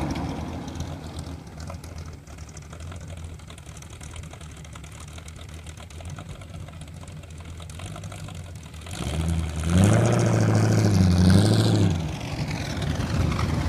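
1934 Ford five-window coupe hot rod's V8 engine running as the car pulls away, fading into the distance, then loud and revving about nine seconds in as it comes close again, with the note rising and falling before easing off near the end.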